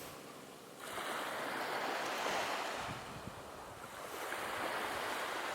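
Sea waves washing onto a beach: the surf swells about a second in, eases off near the middle and builds again.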